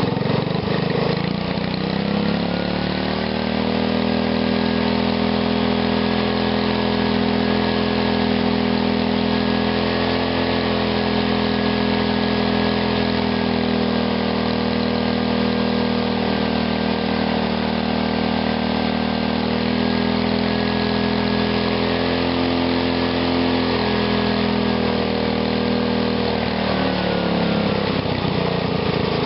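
Small carbureted engine running on a home-built GEET fuel reactor, revved up over the first couple of seconds, held at a steady higher speed, then dropping back toward idle near the end.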